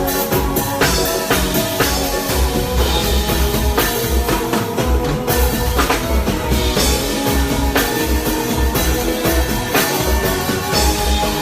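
Live band playing through the PA with a steady beat: drum kit hits over a pulsing bass line, with guitar.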